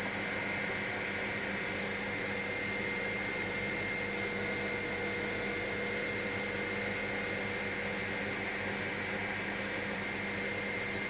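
Helicopter in flight, heard from inside the cabin: a steady drone of engine and rotor with a few constant whining tones, unchanging throughout.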